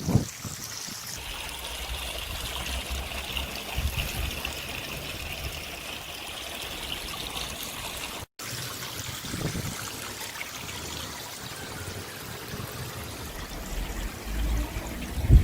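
Water trickling steadily, with a brief break in the sound about eight seconds in.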